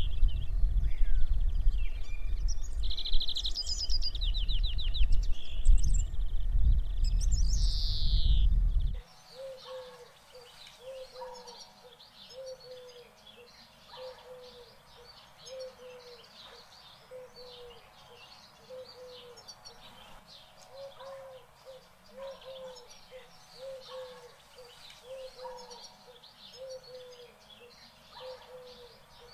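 Wild birds calling. At first there are high, down-slurred calls over heavy wind noise. About nine seconds in it cuts to a quieter recording in which one bird repeats a short low hooting note roughly every second, with faint chirps above it.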